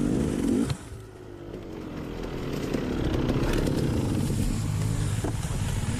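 Dirt bike engine running on a bush trail; the sound drops off sharply under a second in, then builds back up over the next couple of seconds.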